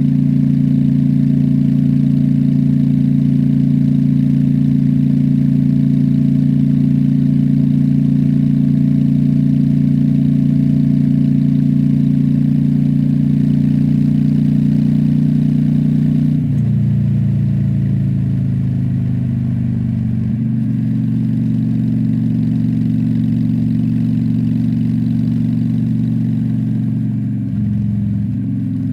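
Honda Shadow V-twin motorcycle engine running steadily under way. About two-thirds of the way through, the engine note drops abruptly and shifts, then changes again a few seconds later and dips briefly near the end.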